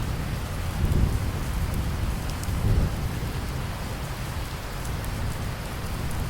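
Steady rain falling, with a low rumble of distant thunder that swells in the first seconds, peaks about a second in and again near the three-second mark, then fades back under the rain.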